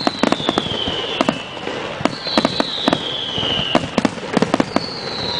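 Fireworks finale: a rapid run of sharp bangs from bursting aerial shells, several at a time, with a high whistle that falls in pitch near the start and again near the end.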